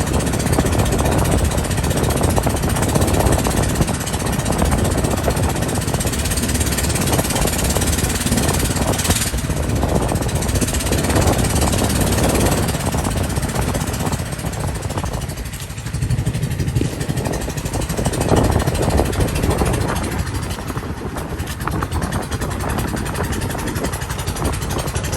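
A moving boat: loud, rough engine rumble mixed with wind buffeting the microphone, fluttering rapidly, easing a little about fifteen seconds in.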